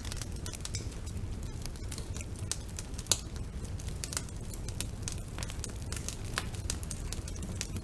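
Wood fire crackling in a fireplace: irregular sharp pops and snaps over a steady low rumble of the flames, with one louder pop about three seconds in.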